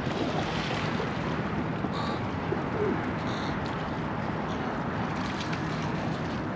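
Steady outdoor wind and ambient noise over wetlands, with a couple of short bird calls about two and three seconds in.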